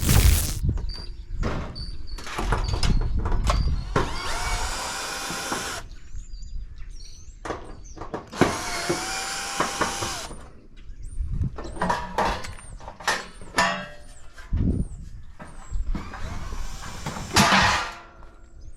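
Cordless drill driving screws out of a scrap appliance's sheet metal in bursts of about two seconds, its motor whine rising and then holding, with clicks and metal knocks from the panels and parts between bursts.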